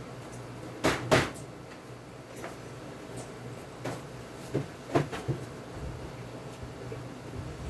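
Wooden beehive super being opened and handled: a few sharp knocks and scrapes of wood on wood, the two loudest about a second in, then a few lighter knocks around the middle.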